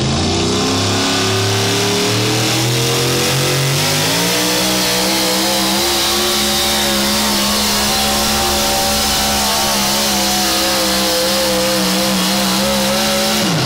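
Four-wheel-drive pulling truck's engine under full throttle on a pull: its pitch climbs over the first few seconds, jumps up about four seconds in, holds high and steady, then falls away sharply near the end.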